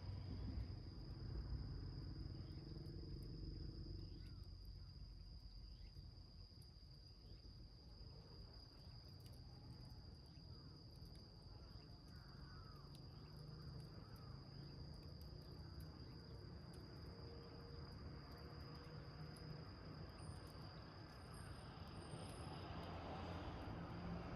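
An insect, tagged as a cricket, trilling one steady high note throughout, with a few faint crackles from a small wood fire burning in a can.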